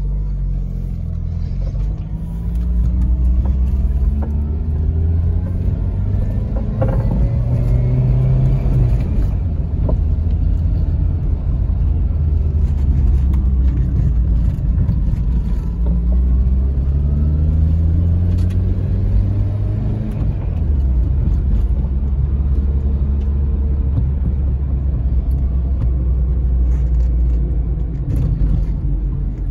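The carbureted four-cylinder engine of a 1985 Toyota Tercel 4WD wagon, heard from inside the cabin under way, with a deep rumble. The revs climb twice, dropping back in between as a gear is changed, then hold steady at a cruise.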